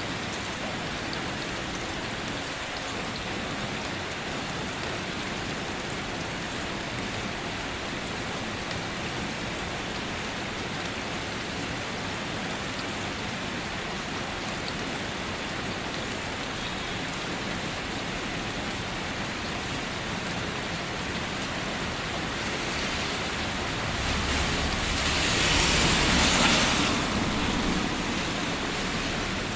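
Steady rainfall, an even hiss of drops. Near the end it swells into a louder rush for about three seconds, then settles back.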